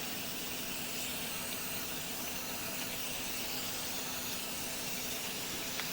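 Water running steadily through a sewer line, heard as an even hiss.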